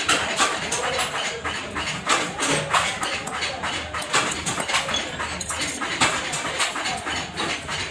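Workshop clatter: a rapid, irregular run of sharp metallic clicks and knocks, several a second, over a faint low hum of machinery.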